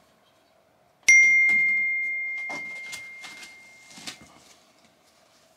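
A metal fire poker struck once, ringing with a clear high tone that fades away over about three seconds, followed by a few light knocks as it is handled.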